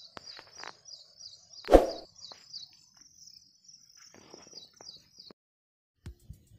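A bird calling in a rapid, steady series of short high chirps, about three a second, that stops a little after five seconds. About two seconds in there is one loud knock of the camera being handled, and evenly spaced music beats start near the end.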